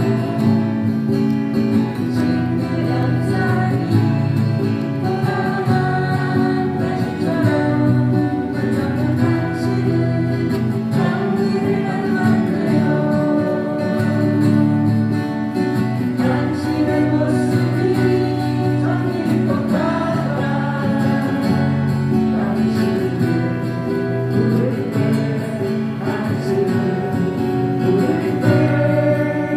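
Live acoustic guitars playing a song with voices singing the melody.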